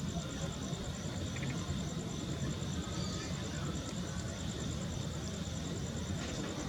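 Insects chirping in a steady, evenly pulsed high trill over a constant low rumble.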